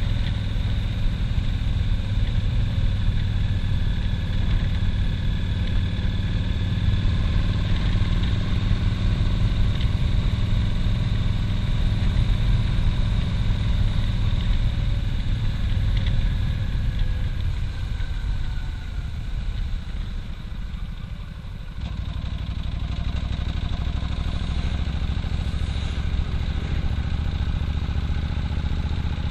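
Cruiser motorcycle's engine running at road speed, heard from the saddle. A little past halfway its note sinks and quietens as it slows, then picks up again about three-quarters of the way through.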